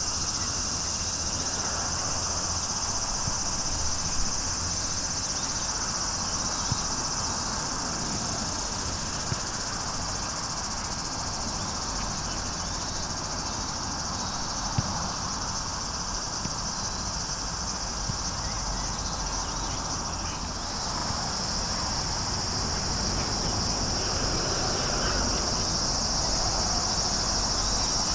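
A steady high-pitched chorus of insects, such as crickets, runs unbroken, with a few faint knocks now and then.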